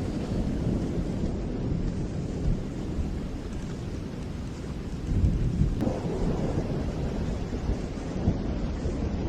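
Rain falling steadily with low, rolling thunder rumbling underneath. The rumble shifts abruptly and grows fuller about six seconds in.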